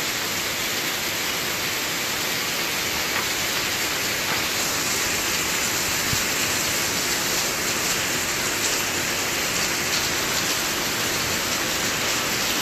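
Heavy rain falling steadily, a dense even hiss that gets a little brighter about four seconds in.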